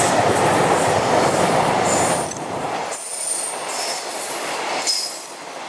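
Sleeper train hauled by an EH500 electric locomotive running by, its wheels on the rails making a loud, steady noise with a few brief high wheel squeals. The low rumble drops away about three seconds in.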